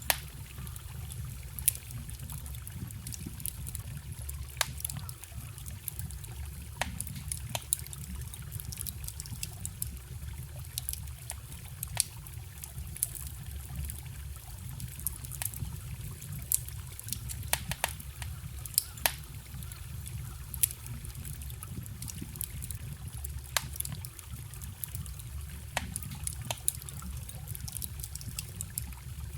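A campfire crackling, with sharp wood pops scattered irregularly, over the steady low rush of a forest stream.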